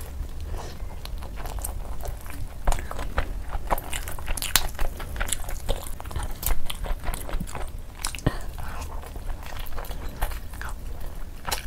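A person biting into and chewing chicken leg pieces with biryani rice, with many irregular sharp wet mouth clicks.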